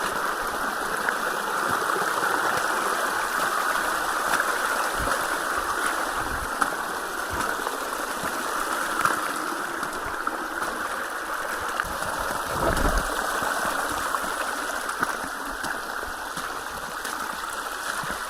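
Steady rush of running water from a rain-flooded walking track flowing like a stream.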